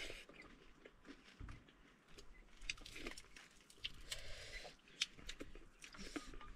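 Close-up eating sounds: irregular wet clicks, lip-smacking and chewing of fried frog meat in the mouth.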